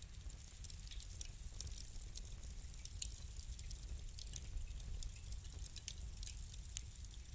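Wood fire crackling: irregular small pops and ticks, a few sharper ones, over a low steady rumble of the burning.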